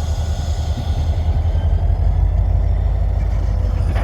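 An engine running steadily with a deep, low rumble.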